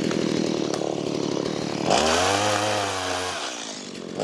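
Gas chainsaw running at speed while cutting wood. About two seconds in it revs up to a steady high pitch, then the pitch sags and fades near the end.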